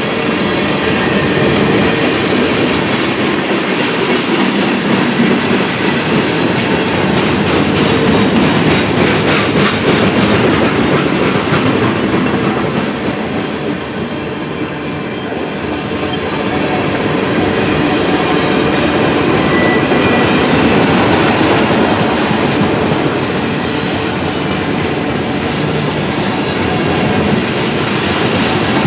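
Freight train cars rolling past, steel wheels clacking steadily over the rail joints. The sound eases a little about halfway through, then builds again.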